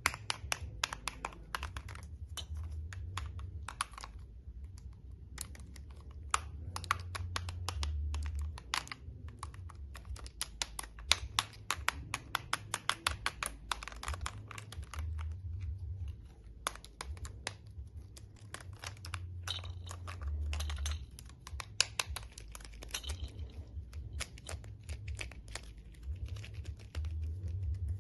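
Toys being handled for their clicking sounds: rapid, irregular clicks like typing, with short pauses and a low handling rumble underneath.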